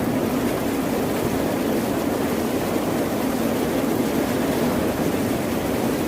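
Ocean surf: a steady, even rush of waves with no distinct breaks or surges.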